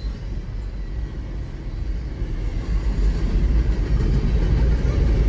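Double-stack container freight train rolling past: a steady low rumble of wheels on rail that grows gradually louder over the first few seconds.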